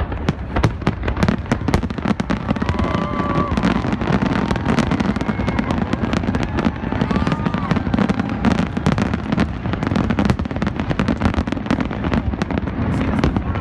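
Fireworks bursting in rapid, continuous succession, many bangs and crackles overlapping, with crowd voices faintly beneath.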